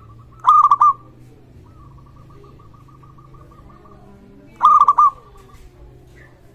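Zebra dove (perkutut) cooing: two loud phrases of four quick coo notes, about four seconds apart, with a fainter run of rapid repeated notes between them.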